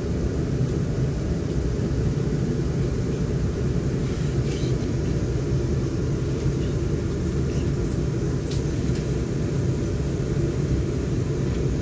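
Steady rumble of a South Western Railway electric train running, heard inside the passenger carriage, with a few faint clicks.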